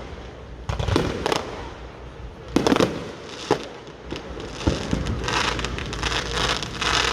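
Fireworks going off: a few sharp bangs, the loudest about two and a half seconds in, then from about five seconds a long stretch of fast crackling.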